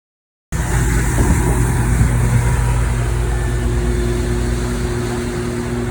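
Houseboat engine running steadily: a loud, low drone with a few steady tones. It starts abruptly about half a second in and cuts off at the end.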